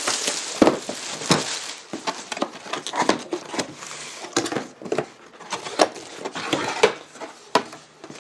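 Packaging of a liquid CPU cooler kit being handled and unpacked: irregular rustling with scattered knocks and clicks.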